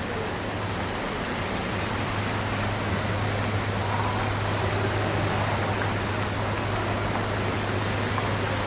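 Water fountain running: a steady rush of falling water, with a steady low hum underneath.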